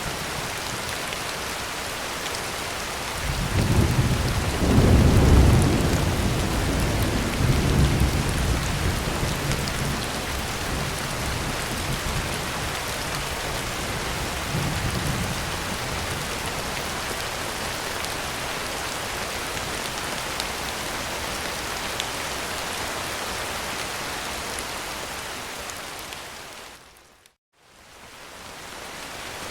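Heavy rain drumming steadily on a tin roof, with a roll of thunder that rumbles in about three seconds in, peaks a couple of seconds later and dies away over the next ten seconds. Near the end the rain fades out for a moment and comes back.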